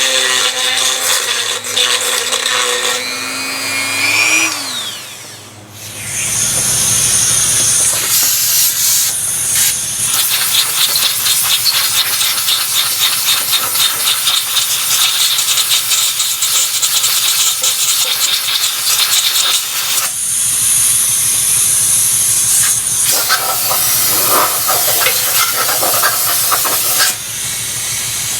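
A power tool works on the oil filter housing's stripped bolt hole. First comes a steady whine that rises and then winds down, then a long, loud hissing noise that starts and stops in stretches.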